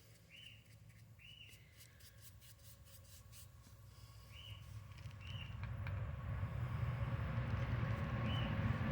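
Paintbrush scratching on concrete, with a bird giving short chirps about five times. A low rumble of road traffic builds from about halfway and becomes the loudest sound.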